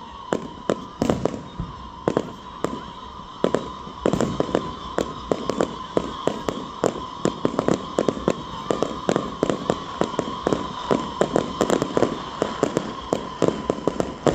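Fireworks going off in a string of sharp bangs and cracks, spaced out at first, then coming several a second from about four seconds in, over a steady high tone.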